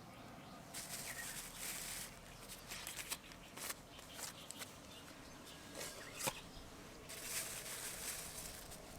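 Two spells of rustling, the first over a second long and the second about two seconds long near the end, with a few light clicks between them.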